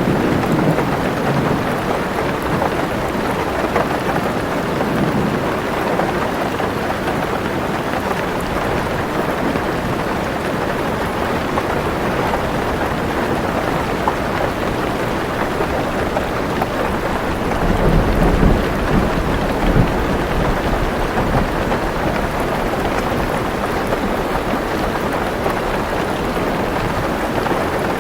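Heavy rain falling steadily on a car roof. Low thunder rumbles fade out in the first second and roll in again about two-thirds of the way through.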